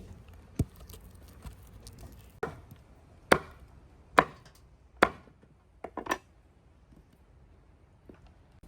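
Food being chopped with a knife on a cutting board: a series of sharp chops, most of them a second or less apart, ending with a quick double stroke.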